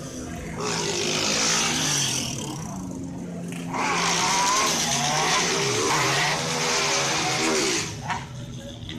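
Car engine running hard with its tyres squealing and skidding, as in a burnout or donut, in two long bursts: one about a second in and a longer one from about four seconds in, with a wavering squeal.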